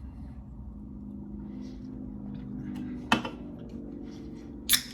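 Mouth noises of a person chewing a bite of burger, with two sharp smacks or clicks, one about three seconds in and one near the end, over a steady low hum.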